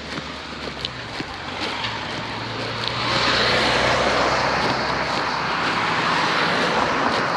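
A motor vehicle passing close by: its noise swells about three seconds in, stays loud, and eases off slightly near the end.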